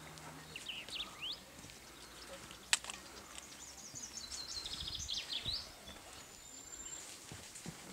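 Small birds singing: a few quick rising chirps near the start and a fast run of repeated high notes around the middle, over faint outdoor background. A single sharp click cuts in about a third of the way through.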